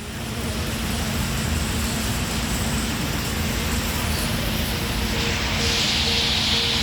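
Steady, dense din of a huge flock of birds gathering to roost, thousands calling at once, over a low steady rumble; the high chatter grows louder about five seconds in.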